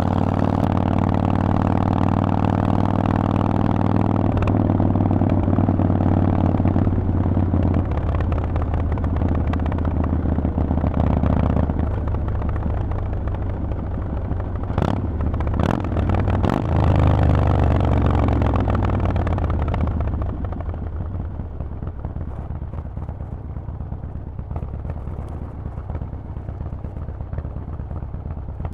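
Harley-Davidson Forty-Eight's air-cooled V-twin running through a Vance & Hines exhaust on the move. The engine holds a steady note that changes step a couple of times, with a few sharp clicks about halfway through. The note then drops away after about two thirds of the way in, leaving a quieter rumble and wind.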